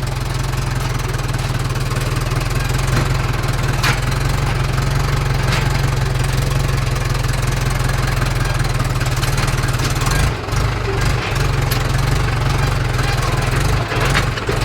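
Tractor diesel engine running steadily and loud, its low note turning uneven about ten seconds in.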